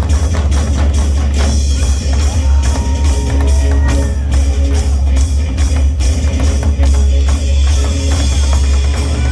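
Drums played in a fast, continuous rhythm over a loud, steady low bass, with a pitched melody line gliding in and out above them.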